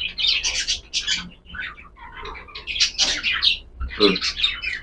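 Cockatiels chirping and squawking: many short, high calls in quick, irregular succession.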